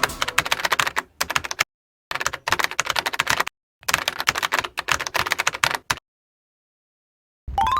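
Keyboard typing sound effect: rapid runs of clicks, broken three times by dead-silent gaps, with a longer silence from about six seconds in.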